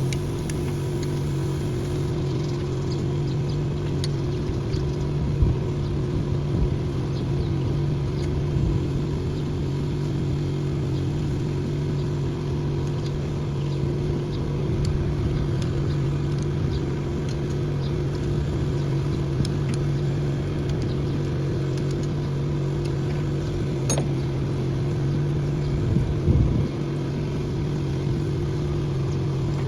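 An engine running steadily at an even speed, with a few scattered metallic clicks over it.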